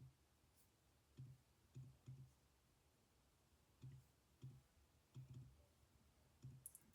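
Faint taps of calculator buttons being pressed while a z-score is keyed in: about ten irregular presses, some in quick pairs.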